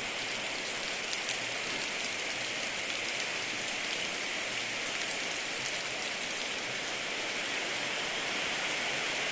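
Steady rain falling, a continuous hiss with faint scattered drop ticks.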